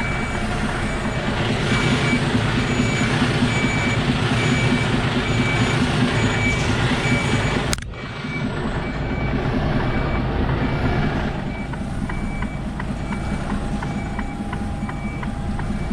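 An HGV's reversing alarm beeping steadily, about two beeps a second, over the lorry's diesel engine running at low revs as the articulated truck reverses. There is a short break in the sound about halfway through.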